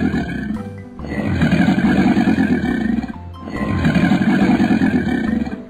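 Crocodile growl sound effect for an animated crocodile: a low, rasping growl heard three times, each about two seconds long, over background music.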